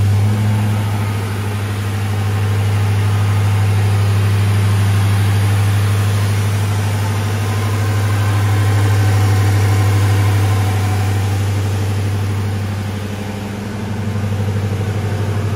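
2003 Ford Crown Victoria Police Interceptor's 4.6-litre V8 idling steadily through its freshly repaired exhaust and stock mufflers.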